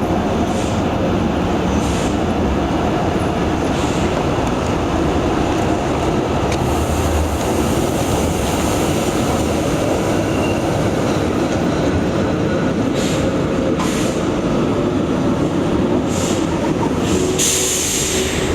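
Tram running on its rails: a steady rumble with a few brief high-pitched noises, the longest near the end.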